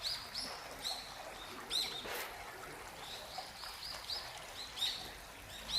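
Small birds calling with short, high chirps repeated many times.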